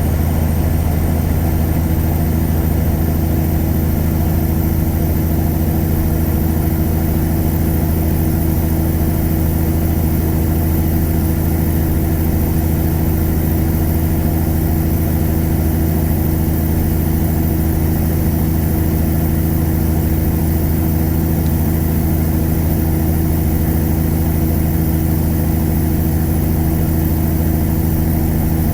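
Tuned Caterpillar 3406E inline-six diesel in a 1999 Freightliner Classic truck, running at a steady, unchanging engine speed: a loud, even drone with no revving or gear changes.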